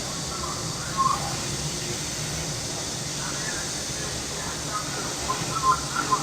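Summer cicadas droning steadily over a low background hum, with a few short high chirps about a second in and several more near the end.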